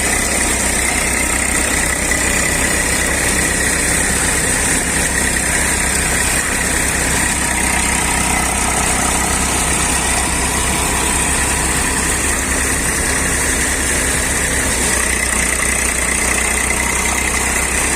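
Eicher 380 tractor's diesel engine running steadily at an even speed, with a steady high whine over it.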